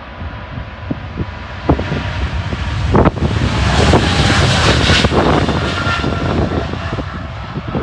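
Jet noise from a Boeing 777-300ER's two GE90-115B turbofans as the airliner passes by, swelling to its loudest about four to five seconds in and then easing off. Wind buffets the microphone.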